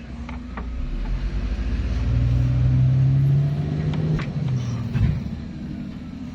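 A motor vehicle's engine runs, growing louder to a peak in the middle and then falling away, with a single knock about five seconds in.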